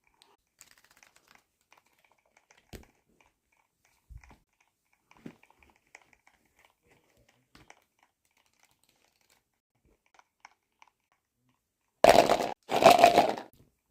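Packaging handled during an unboxing: faint scattered crinkles and taps, then two loud rustling crinkles near the end.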